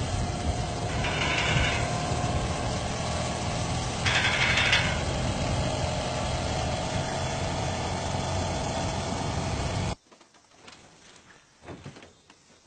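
Monkey bike's small single-cylinder four-stroke engine running at idle, with two short raspy noises breaking in, about a second in and about four seconds in. The engine sound cuts off abruptly near the end.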